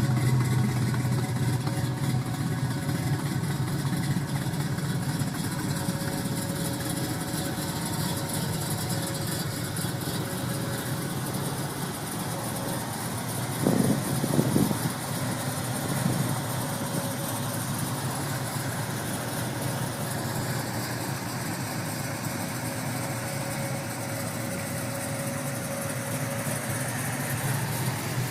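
A car engine idling steadily, with a few short louder bursts about halfway through.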